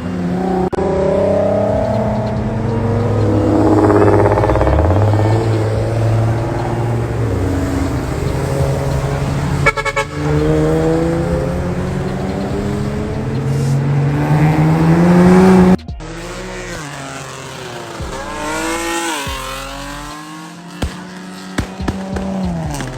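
Car engine revving hard, its pitch climbing in long sweeps, with abrupt cuts about ten and sixteen seconds in; quieter mixed sound after the second cut.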